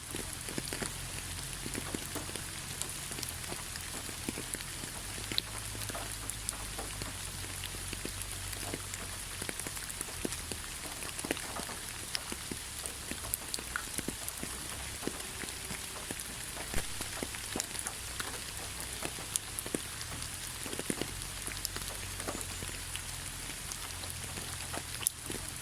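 Steady rain falling on a forest road, with many separate drops ticking sharply through the even hiss.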